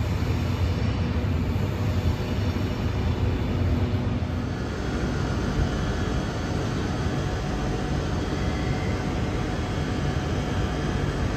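A train at the station running with a steady low mechanical drone, like a locomotive's engine or cooling blowers. The low drone is heaviest for the first four seconds or so, then eases a little and stays steady.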